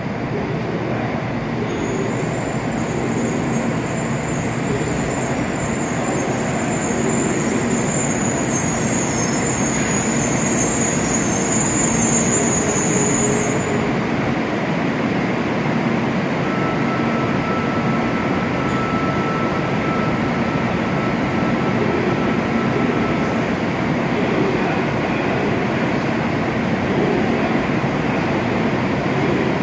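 JR Kyushu 800-series Shinkansen train pulling into the station and braking to a stop, with a high-pitched squeal that cuts off as it halts about halfway through. After that comes the steady hum of the stopped train's equipment.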